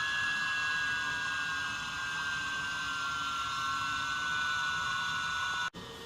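HO-scale model locomotive's LokSound V5 sound decoder playing a turbine whine through its small speaker: a high steady tone over a hiss, slowly falling in pitch. It cuts out suddenly near the end and comes back quieter.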